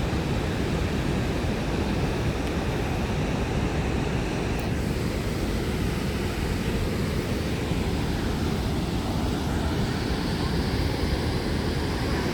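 Steady rushing roar of Ohiopyle Falls, the waterfall on the Youghiogheny River, loudest in its low rumble and unchanging throughout.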